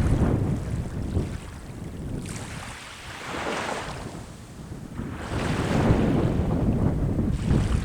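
Sea waves breaking and washing up the shore, swelling twice, over low wind rumble on the microphone.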